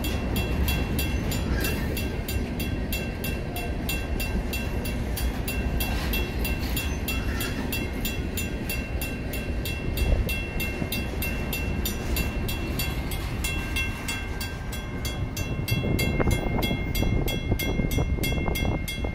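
Freight train of center-beam flat cars rolling through a grade crossing, its wheels rumbling on the rails. Over it the crossing's WCH first-generation mechanical bell rings with rapid, even strokes.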